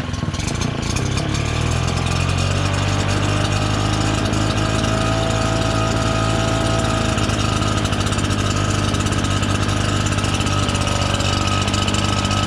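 RedMax EBZ7500 backpack leaf blower's two-stroke engine running steadily. Its note settles over the first couple of seconds into an even drone with a higher whine above it.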